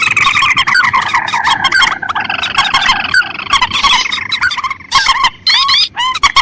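Lure recording of rice-field rails: the mandar and tikusan crake calls layered together in a dense, rapid chattering of squealing notes. Near the end the chatter breaks into separate loud call notes with short gaps between them.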